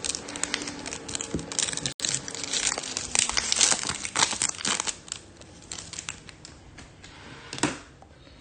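Trading card pack wrapper being torn open and crinkled, a dense crackling with many small clicks, with one sharper click near the end.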